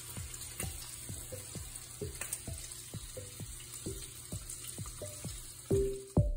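Food frying in a hot pan, a steady sizzle, with an electronic music beat of drum hits about three times a second under it. Near the end the sizzle fades and the beat gets louder.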